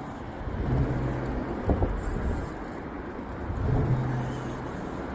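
RC rock crawler working over rock: its small electric motor hums in two short spurts, once about a second in and again near four seconds, and one knock comes a little under two seconds in, over a steady low rumble.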